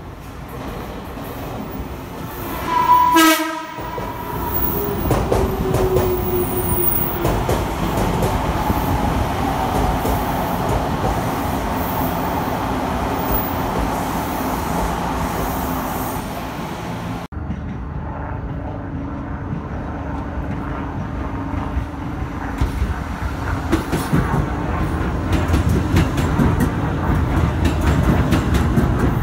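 Electric commuter train sounding a short horn blast about three seconds in, then running into the station platform with wheel clatter and a falling whine as it slows. After a cut, a New York City subway train runs along the platform, its wheels clattering, growing louder near the end.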